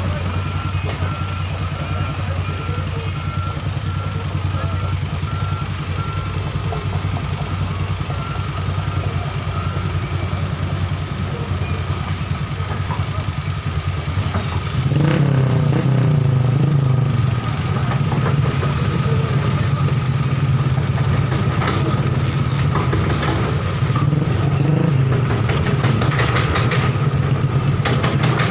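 A heavy vehicle's diesel engine running steadily, with a reversing alarm beeping for the first ten seconds or so. About halfway through the engine gets louder and its pitch rises a little, as if under load or moving closer.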